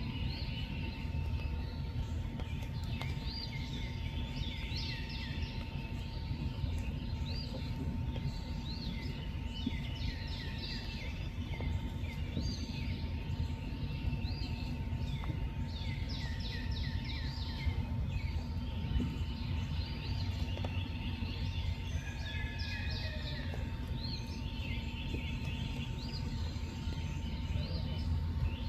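A chorus of many short, overlapping chirping calls, some rising and falling in pitch, runs throughout over a steady low rumble and a faint steady hum.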